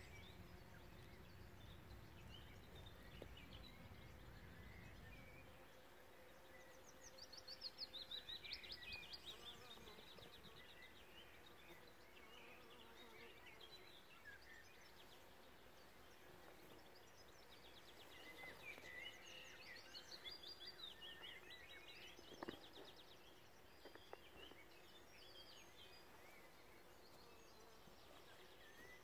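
Faint birdsong in the open: quick trilling phrases about seven seconds in and again around eighteen to twenty-one seconds, over a faint, steady hum of bees foraging on flowering field beans. A low rumble fills the first few seconds, and there is a single click near the end.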